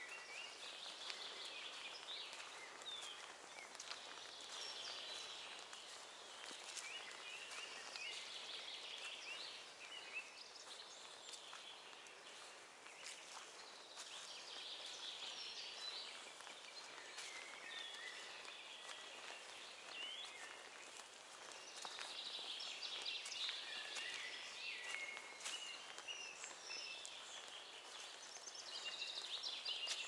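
Several songbirds singing at once, a faint mix of overlapping chirps and trills.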